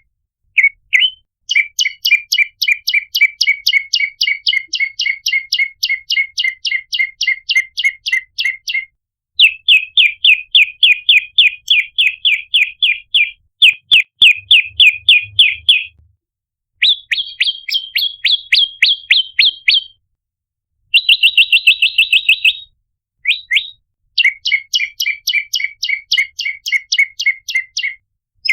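Olive-backed tailorbird calling: long runs of sharp, high chip notes repeated about five times a second. The runs come in several bouts with short breaks between them, and one short bout past the middle is much faster.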